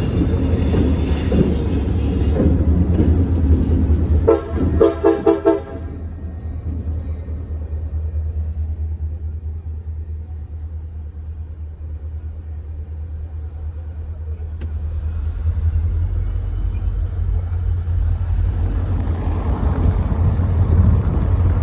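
A passing train with a steady low locomotive rumble; the high hiss of wheels on rail fades over the first two seconds. About four seconds in the train horn sounds in a quick run of short toots, and the rumble and rail noise swell again near the end.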